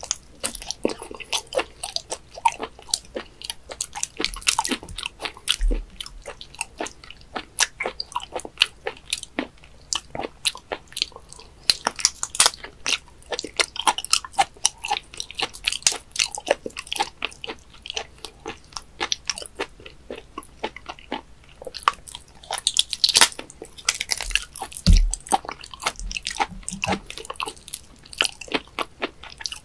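Close-miked wet chewing and mouth smacking of raw webfoot octopus: a dense, uneven run of sharp little clicks as the tentacles are sucked in and chewed.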